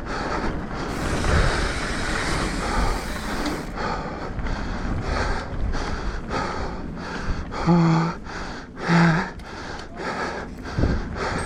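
Mountain bike rolling fast down a dirt trail: tyre and wind noise on the camera microphone with frequent rattling jolts from the bike. Two short grunts from the rider, about a second apart, near the end.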